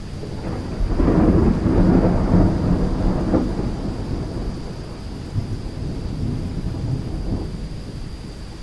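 Thunder rolling over steady rain: a deep rumble builds about a second in, is loudest for the next two seconds or so, then slowly fades.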